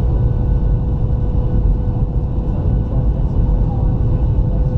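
Steady cabin noise inside a Boeing 737-700 airliner in flight: a loud, even rumble from the engines and airflow, with a steady hum over it.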